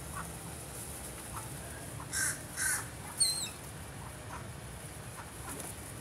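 Birds calling: two loud harsh squawks about two seconds in, then a short high whistled note that dips at its end, with faint short chirps scattered throughout.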